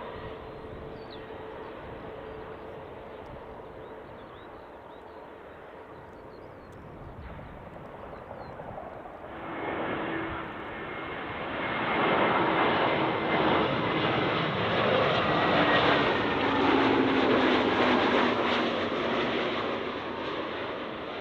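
Jet airliner on short final approach passing low overhead: its engine noise swells about halfway through and stays loud through the second half, with a steady whine that slowly drops in pitch as it goes by, starting to fade near the end.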